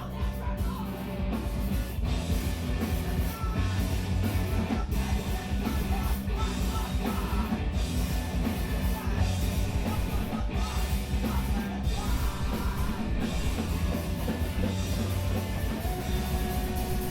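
Screamo band playing live, with drums, guitars and vocals.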